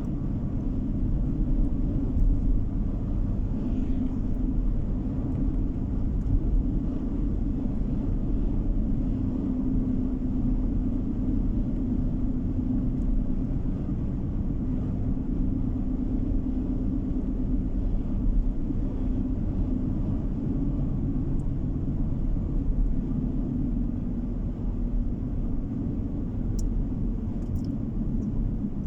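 A car driving at steady speed, heard from inside the cabin: a continuous low rumble of road and engine noise with a steady hum.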